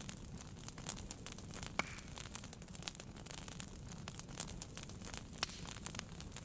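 Wood fire burning in a fireplace: a steady low rumble of flame with frequent irregular crackles and snaps, two sharper pops standing out, one about two seconds in and one near the end.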